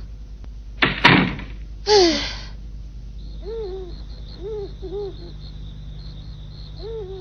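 Cartoon sound effects: a short door-like thump about a second in and a brief noisy swish near two seconds. Then night ambience of a steady high insect trill with four or five short rising-and-falling animal calls.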